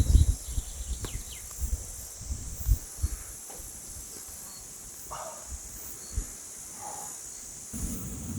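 Steady high-pitched chirring of crickets and other insects, with a few light knocks and rustles in the first seconds and a low rumbling noise coming up near the end.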